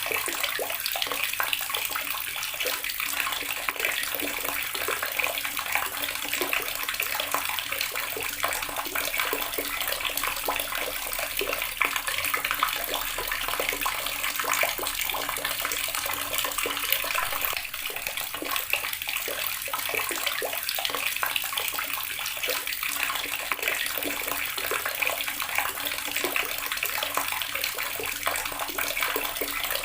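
Water running steadily from a tap, splashing into a basin.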